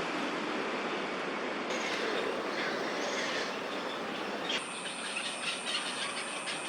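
Steady outdoor background din of distant traffic, an even rushing hiss. About two-thirds of the way in a thin, high steady whine with fast fine ticking joins it.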